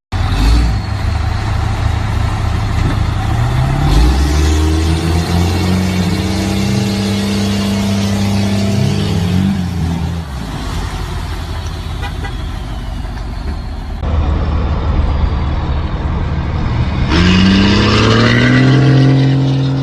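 Diesel truck engines revving, the pitch climbing, holding and dropping away, with abrupt switches to another engine partway through and again near the end.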